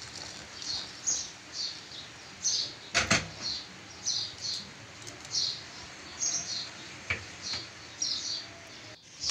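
Small birds chirping, short high chirps about twice a second, with a sharp knock about three seconds in and a fainter click about seven seconds in.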